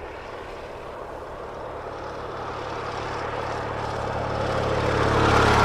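BMW R69S 594cc air-cooled opposed-twin engine running at a steady note, growing steadily louder.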